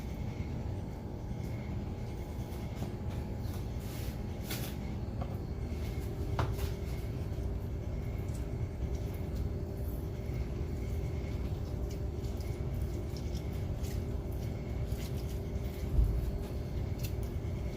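A steady low hum, with scattered light clicks and taps of kitchen handling, and one soft low thump near the end.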